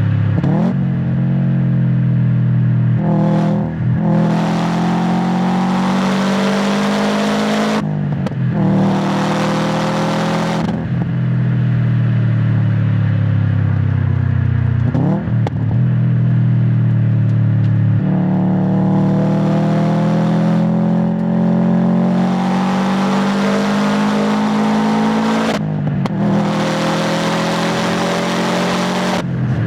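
2016 Subaru WRX STI's turbocharged EJ257 flat-four, heard through its exhaust from close to the tailpipe, pulling through the gears. Its pitch climbs and drops with acceleration, shifts and lifting off. Brief breaks come at the shifts, and there are two longer hissing stretches.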